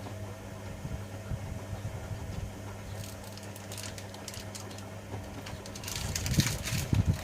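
Privileg Sensation 9245 washing machine running a cycle: a steady motor hum while the drum turns, then, about six seconds in, louder thuds and a rush of noise as the laundry tumbles.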